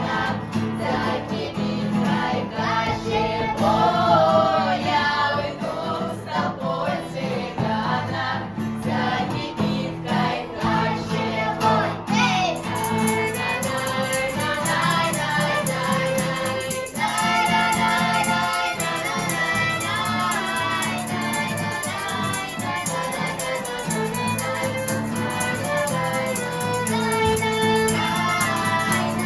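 A vocal ensemble singing a romance with instrumental accompaniment.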